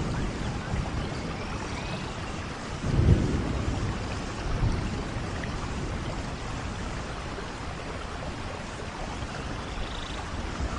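Steady rain falling, an even hiss, with a brief low rumble of thunder about three seconds in.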